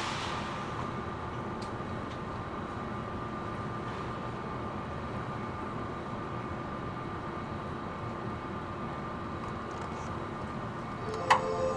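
Cabin ambience of a Seibu New 2000 series electric train standing at the platform before departure: a steady low hum and hiss with a faint steady tone. A short hiss sounds at the start, and near the end a sharp click is followed by the start of a pitched tone.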